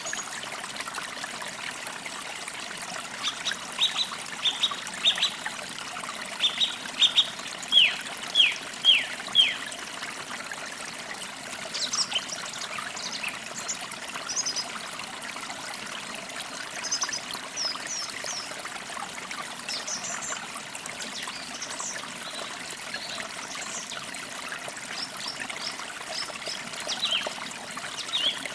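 A stream trickling steadily with birds calling over it: a run of quick downward-sweeping chirps from about three to ten seconds in, then scattered higher, thinner chirps.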